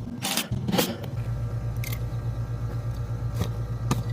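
Central air conditioner's outdoor condensing unit running after a capacitor replacement: a steady mechanical hum from the compressor and condenser fan, with a few short clicks over it.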